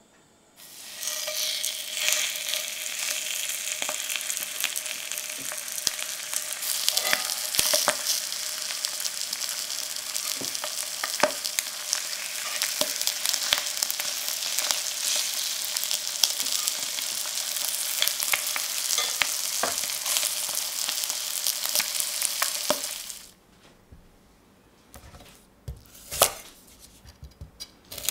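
Flour-coated chicken thighs frying in hot oil in a cast-iron skillet: a loud, steady sizzle with occasional clicks of metal tongs, starting suddenly just after the start and cutting off sharply near the end. After it come a few knife cuts on a wooden chopping board.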